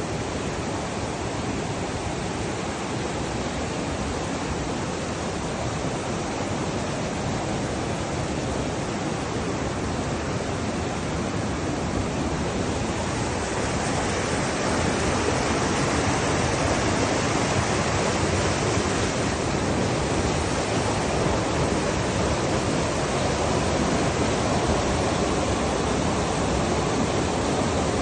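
Flowing water rushing steadily, a little louder from about halfway through.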